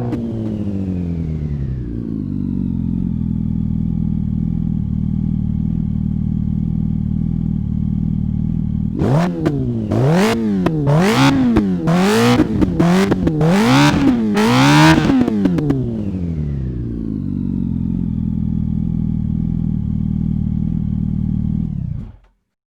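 An engine drops from a rev to a steady idle. About halfway through, the throttle is blipped in a quick series of rises and falls in pitch. It then settles back to idle and cuts off suddenly near the end.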